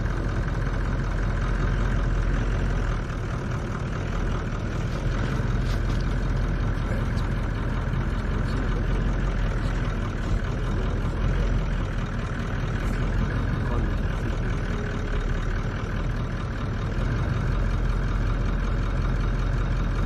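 A car's engine running steadily.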